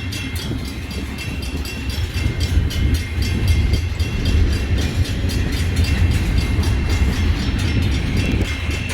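A train passing close by: a steady low rumble with a rapid run of clicks from the wheels over the rail joints, and a faint steady high whine.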